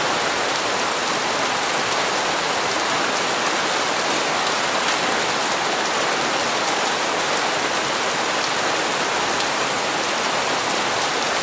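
Steady rain falling on hard surfaces, an even hiss with faint scattered drop ticks.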